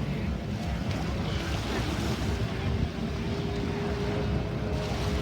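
Wind buffeting the microphone over the wash of surf. From about two seconds in, a distant personal watercraft engine holds a steady, even whine.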